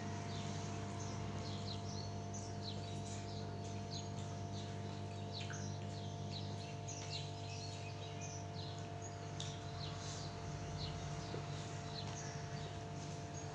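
Small birds chirping in many short, quick calls, over a steady low hum.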